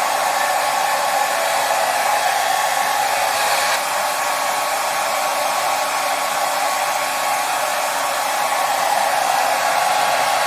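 Hair dryer running steadily: a continuous loud whoosh of fan and blown air, dipping slightly about four seconds in.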